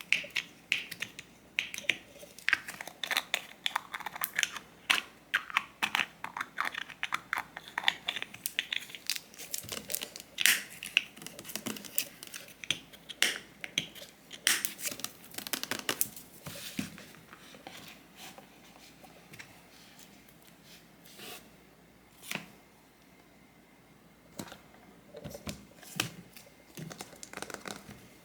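Close-up handling of small objects and packaging: quick clicks, taps and crinkling, busy for the first sixteen seconds or so, then sparser with a few separate clicks.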